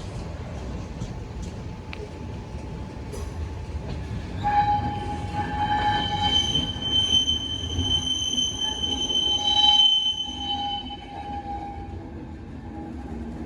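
Train of IC1 passenger carriages rolling through the station with a low rumble. About four seconds in, the wheels start squealing in several high, steady tones for some six seconds, then fade back to the rumble.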